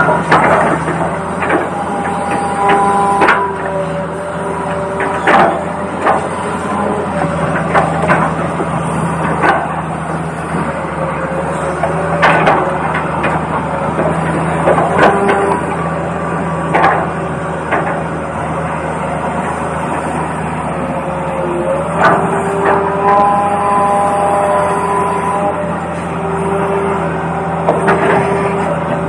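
RC toy excavator running, with a steady electronic engine hum whose tones shift now and then, and frequent sharp plastic knocks and clicks.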